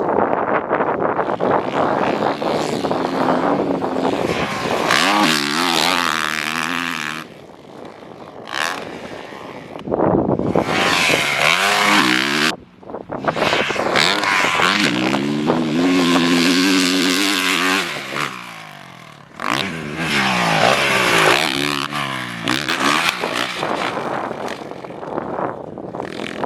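Honda CRF450R four-stroke dirt bike engine revving hard on a motocross track, its pitch rising through the gears. The throttle is shut off and reopened several times, at about seven, twelve and eighteen seconds in.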